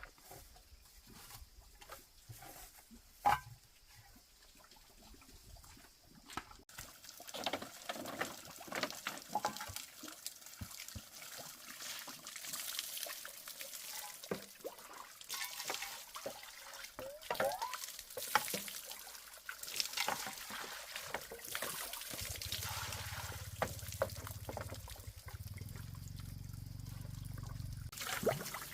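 Water pouring and splashing, with scattered knocks and clicks; it starts about a quarter of the way in, and a low steady hum joins it about three-quarters through.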